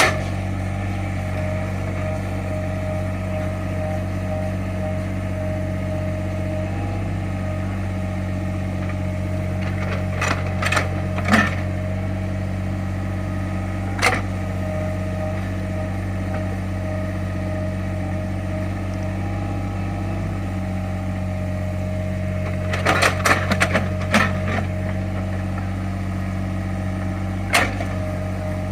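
Small Caterpillar excavator's diesel engine running steadily with a steady whine over it, broken by sharp knocks and clanks: a couple about ten seconds in, one at about fourteen seconds, a quick cluster about two-thirds of the way through and one more near the end.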